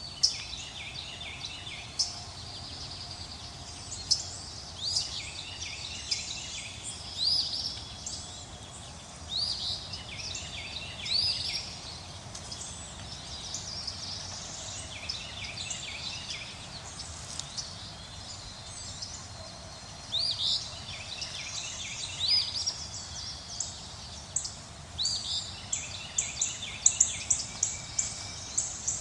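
Several birds chirping and calling outdoors, many short notes and quick rising whistles, over a steady rustling background of wind in leaves. A run of sharp, quick chirps comes near the end.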